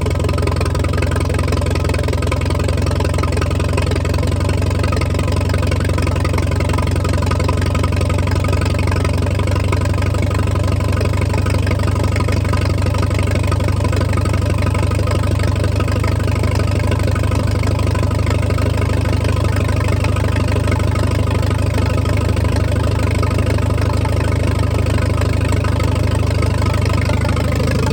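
Allis-Chalmers pulling tractor's engine idling steadily at an even, unchanging speed.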